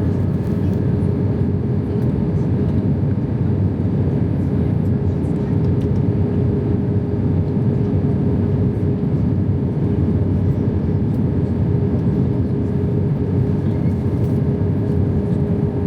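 Airbus A320 cabin noise in flight: the steady rumble of the jet engines and airflow heard from inside the cabin, with a constant hum over it.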